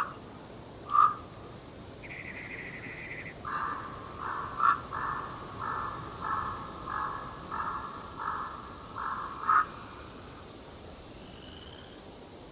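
A bird calling: two short sharp calls, a longer higher call, then a run of about nine harsh calls at a steady pace of roughly one and a half a second, over a faint steady forest hiss.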